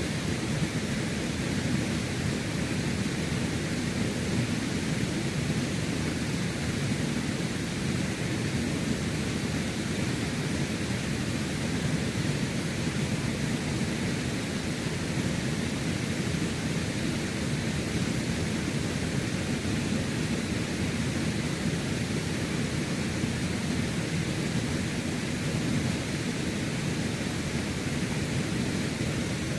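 Steady rushing of creek water, a constant even roar without breaks.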